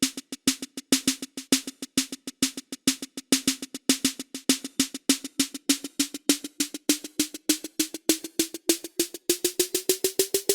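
Snare drum fill sample for a build-up: a roll of snare hits that come faster and faster, their pitch rising over the last few seconds.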